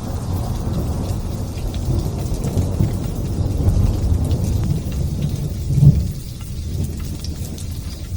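Thunder rumbling low over light drizzle, with faint raindrop patter above. The rumble swells to a loud peak about six seconds in, then dies down.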